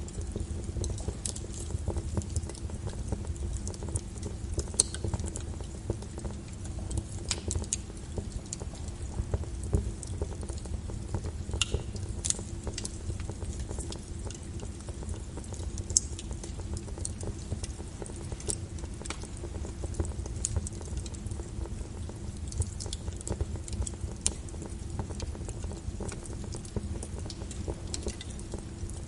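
Wood fire burning with a steady low rumble and constant crackling, with a few sharper, louder pops now and then.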